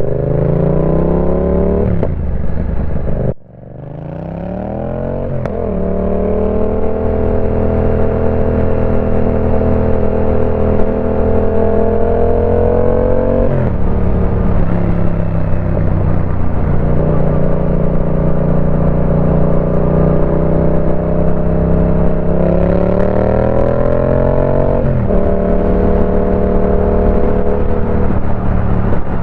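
Yamaha Tracer 700's parallel-twin engine through a full TEC aftermarket exhaust, its revs climbing and then holding steady at several speeds, falling sharply about halfway and again near the end. The sound cuts out briefly about three seconds in.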